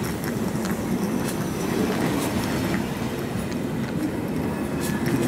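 Electric multiple-unit passenger train moving slowly alongside a platform: a steady low rumble of wheels on rail, with a few scattered sharp clicks.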